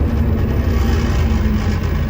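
Scania OmniCity bus engine running with a steady low hum.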